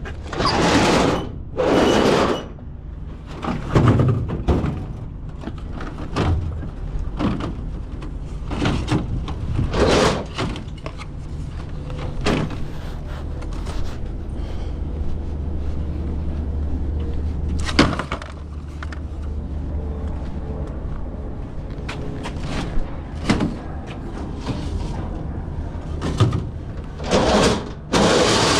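Repeated knocks, bangs and clatter from things being handled, over a steady low hum. The loudest knocks come near the start and near the end.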